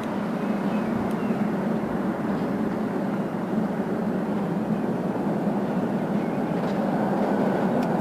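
Tram running on its rails: a steady rumble with a constant low hum, without pauses or sharp knocks.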